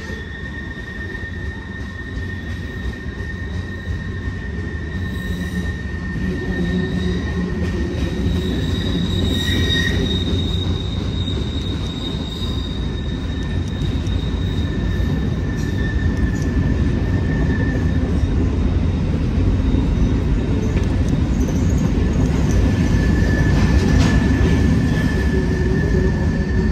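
Freight train rolling past, its cars' wheels rumbling on the rails with a steady high-pitched wheel squeal that drops away and returns. The sound slowly grows louder.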